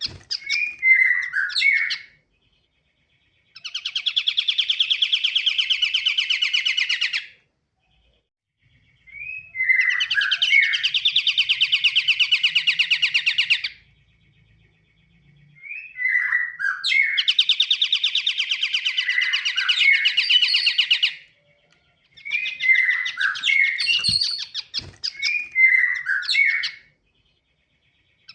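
Pied triller (kapasan kemiri) singing vigorously: phrases of short rising chirps alternate with long, fast trills of several seconds each, with short silences between bouts.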